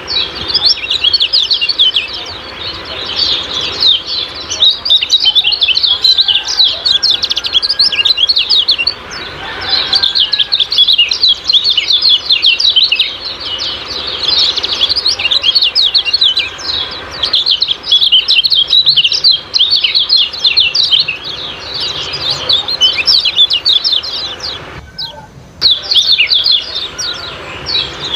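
Kecial kuning giving its rapid, high-pitched 'ciak-ciak' chattering song, a dense run of quick chirps with a brief break near the end.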